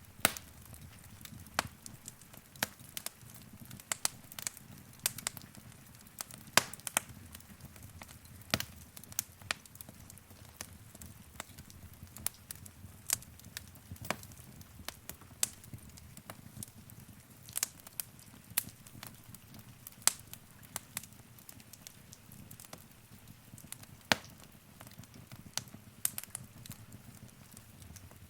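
Wood fire crackling in a fireplace: irregular sharp pops and snaps of varying loudness over a steady low rumble of the flames.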